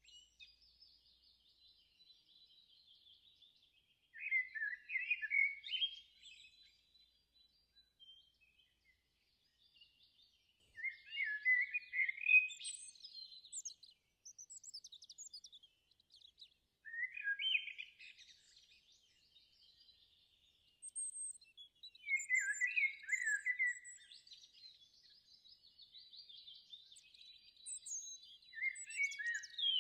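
A songbird singing in five warbling phrases, each one to three seconds long, with pauses of a few seconds between them. Fainter high chirps from other birds come in between the phrases.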